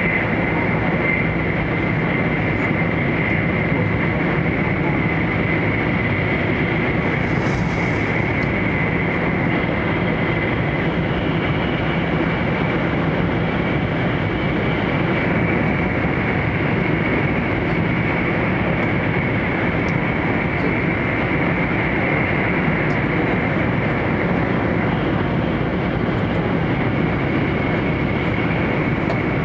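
Cabin noise inside the upper deck of an E4 series Max double-decker shinkansen running along the line: a steady rush of running noise with a constant high tone through it.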